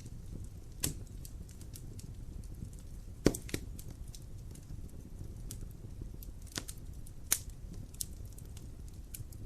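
Wood fire in a fireplace crackling over a low steady rumble, with sharp pops at irregular moments; the loudest come about a second in, past three seconds and past seven seconds.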